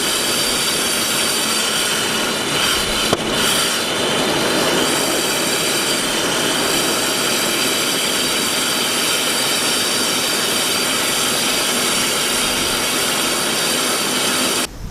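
1996 GMC Sonoma pickup engine running steadily after sitting six years, missing on one cylinder, with a single sharp click about three seconds in. The sound cuts off abruptly just before the end.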